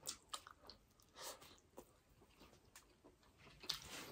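Faint chewing and mouth sounds of people eating rice and burger steak with gravy by hand: a few soft, short smacks and clicks over near silence.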